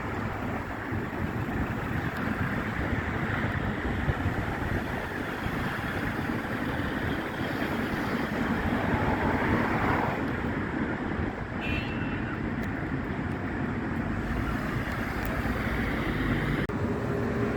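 Wind buffeting the microphone over a steady low engine rumble, with an abrupt break near the end.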